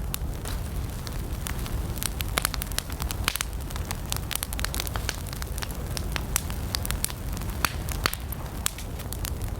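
Wood campfire burning, with irregular sharp crackles and pops over a steady low rumble of flames.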